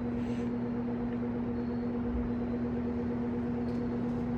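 Vintage Sears box fan running on a middle speed, its motor putting out a steady hum over the rush of air from the blades. The owner takes the heavy motor hum for a sign of bad windings or a bad speed switch.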